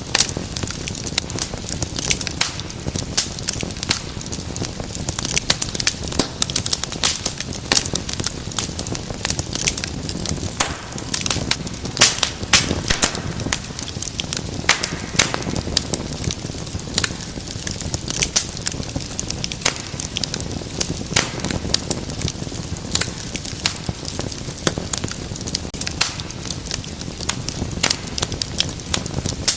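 Wood fire crackling, with many sharp pops and snaps at irregular intervals over a steady low rumble of flame.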